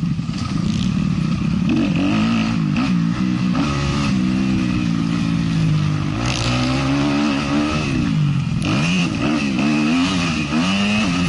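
Motocross bike engine racing on a dirt track, its pitch repeatedly rising and falling as the throttle is opened and closed and the gears are changed.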